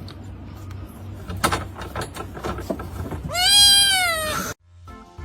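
A pet's long, drawn-out cry that rises and then falls in pitch, about three seconds in, after some scattered handling noises. The sound cuts off abruptly just before the end.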